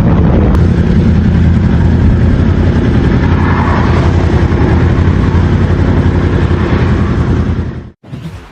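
Motorcycle riding at speed, recorded on a helmet camera: engine noise with heavy wind rumble. The sound cuts off suddenly about eight seconds in.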